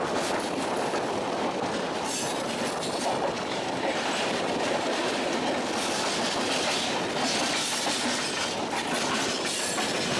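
MEMU electric local train running along the track, a steady rumble with several brief swells of higher-pitched noise.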